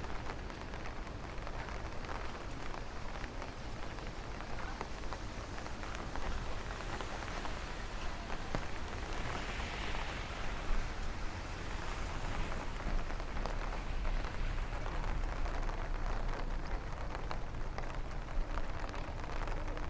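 Steady rain falling on an open umbrella overhead and on the street, with scattered sharper drop ticks. A hiss swells and fades about halfway through.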